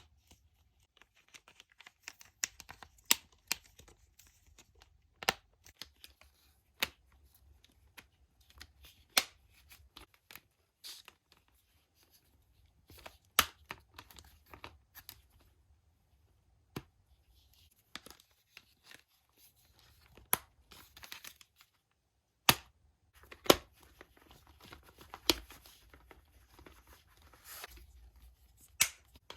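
Close-up handling of toy packaging: irregular sharp clicks and taps with crinkling and tearing.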